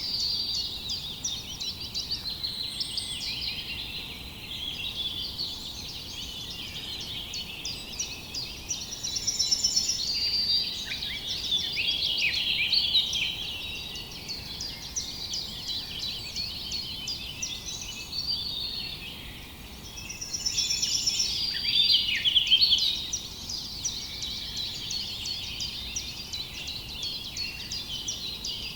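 Many small birds chirping and trilling at once in a dense, continuous chorus, swelling louder twice, about a third of the way in and again after the midpoint.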